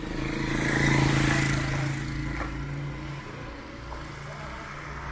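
Motor vehicle engine running amid street traffic. It swells about a second in with a rush of noise, as a vehicle passes close, then eases off.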